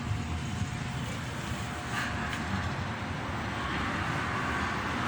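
Solaster Acapulco Plus wall fan running, a steady whoosh of air with a low rumble.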